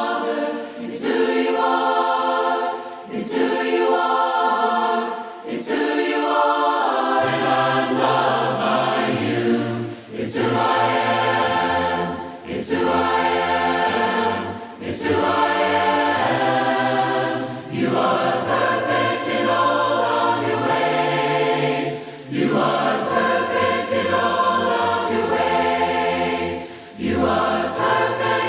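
Unaccompanied choir singing a hymn in parts, in phrases a couple of seconds long with short breaks between them; lower voices join about seven seconds in.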